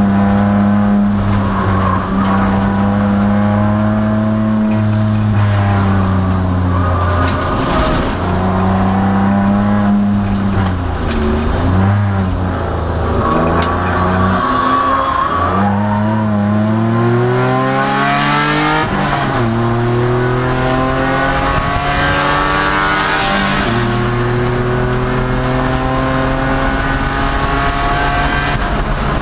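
2002 Nissan Maxima race car's V6 engine at racing speed, its pitch climbing as it accelerates and dropping several times as the driver lifts or shifts. A tyre squeals briefly about halfway through.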